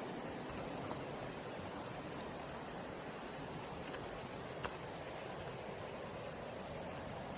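Steady, even rushing of a river, with one small click about two-thirds of the way through.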